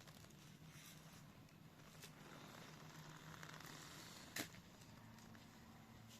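Near silence: faint background hiss, broken by one sharp click a little past four seconds in.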